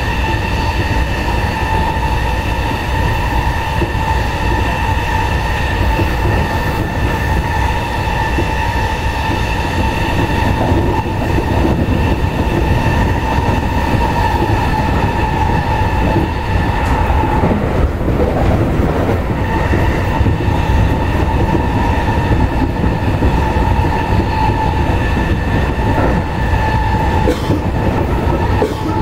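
Interior running noise of a JR E217 series electric train at high speed: a constant rumble of wheels on rail under a steady high whine. The whine fades for a couple of seconds a little past the middle, then comes back.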